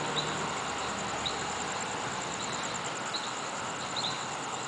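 Crickets trilling steadily in a high pulsing chorus, with short chirps now and then, over a low, steady hum of distant car traffic.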